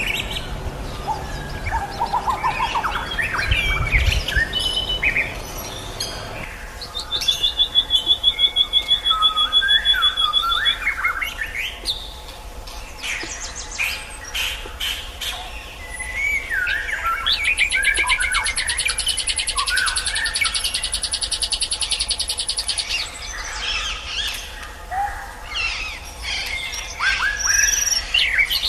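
Songbird singing a varied, loud song of whistled phrases, chirps and rapid trills, with an even trill about a third of the way in and a longer rapid, rattling trill past the middle.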